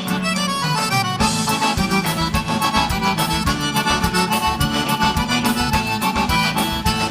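Live gaúcho band playing an instrumental break in bugio rhythm, the accordion carrying the melody over bass and a steady beat.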